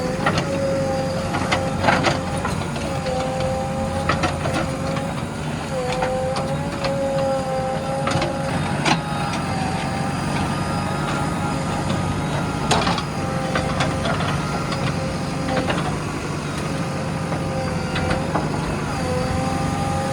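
JCB 3DX backhoe loader's diesel engine running with a steady high whine that dips briefly in pitch now and then, over a low rumble, with occasional sharp clanks.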